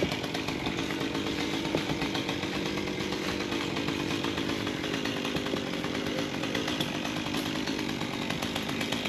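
Two-stroke chainsaw running steadily, its engine pitch wavering slightly as it cuts.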